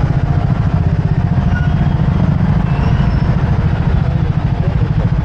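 Motorcycle engine running during a ride in traffic: a steady, loud low drone with a fast pulse.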